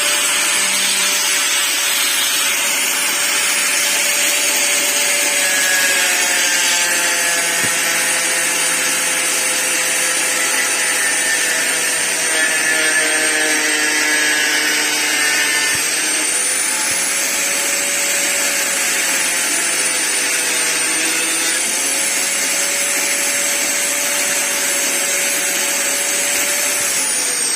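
Angle grinder running steadily with a high whine, its pitch dipping and recovering a few times as it is pressed into the work, then switched off and spinning down near the end.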